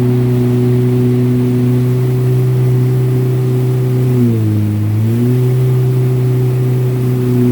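Jet ski engine running steadily. Its pitch dips for about a second a little past halfway, then climbs back.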